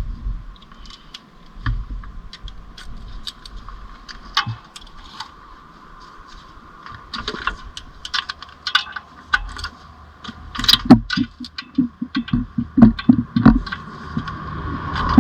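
Hand tools clinking and clicking against the metal of a car's clutch assembly as it is unbolted, with a quick run of knocks, about five a second, near the end.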